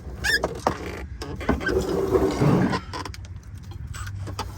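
Hand socket wrench loosening a 13 mm bolt on a car's underside, with scattered metal clicks, knocks and scraping of the tool on the bolt.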